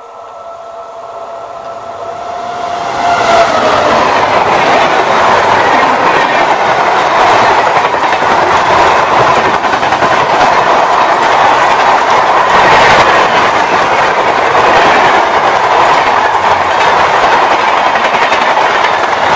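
Electric-hauled express passenger train passing at speed close by. A steady tone is heard as it approaches; about three seconds in, a loud rush and clickety-clack of the coaches' wheels on the rails sets in and carries on as the coaches go by.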